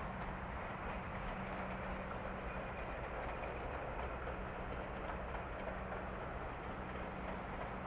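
Diesel locomotive working a train past at a steady level: a low engine drone under the rumble of rolling wheels.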